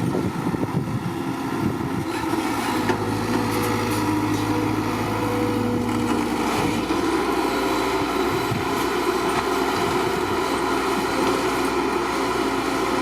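Small motors of a homemade toy construction truck running steadily, the hum shifting in pitch now and then, with a few faint clicks.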